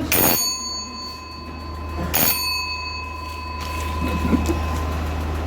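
A small metal bell struck twice, about two seconds apart, each strike ringing on with clear steady tones that slowly fade.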